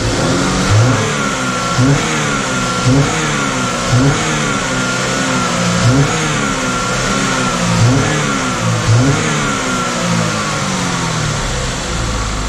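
Chevy Equinox engine, freshly back together after jumping timing, being revved in short blips about once a second, each rising quickly and falling back toward idle, around ten times.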